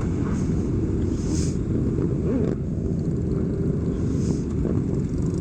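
Motorcycle engines running steadily, a dense low sound with no sharp events.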